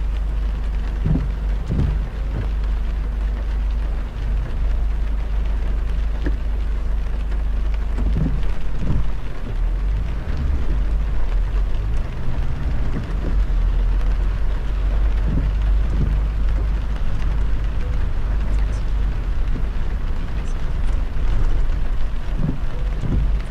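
Heavy rain on a car driving on a wet highway: a steady hiss of rain and road spray over a constant low road rumble, with a few soft low thumps now and then.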